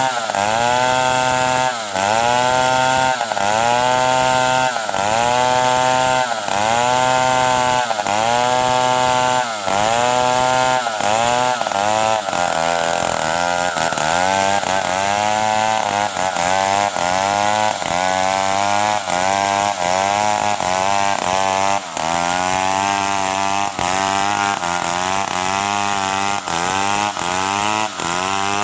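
Stihl 070 two-stroke chainsaw cutting wood, its engine pitch dipping under load and picking back up in a regular rhythm, about once a second at first and quicker in the second half.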